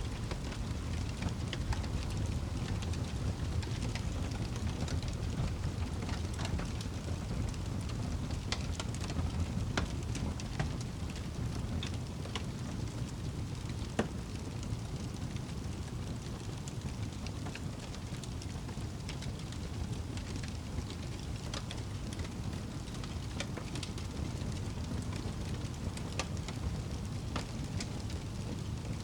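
Wood fire burning in a fireplace: a steady low rumble with scattered sharp crackles and pops, one louder pop about halfway through.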